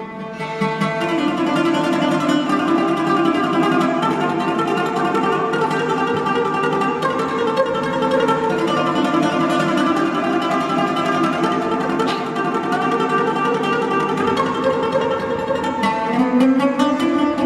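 Oud music: an oud plucked in fast, dense runs of notes.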